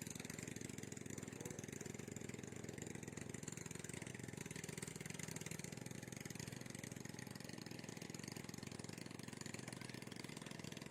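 A small engine running steadily at an even idle-like speed.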